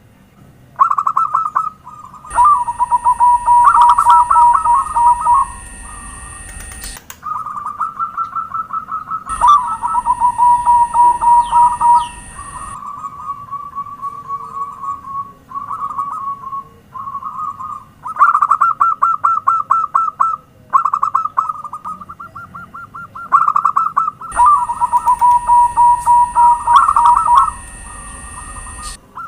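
Zebra dove (perkutut) song: repeated phrases of rapid staccato coos, some running into lower, held warbling notes, with short gaps between phrases. A steady high-pitched tone sits under three of the phrases.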